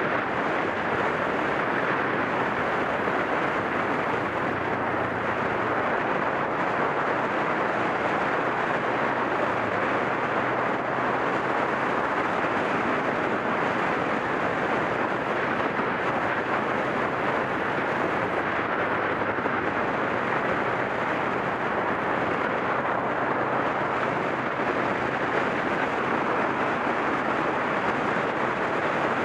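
Wind rushing steadily over a motorcycle-mounted action camera's microphone while riding, with the low drone of a Suzuki ST250's single-cylinder engine running steadily underneath.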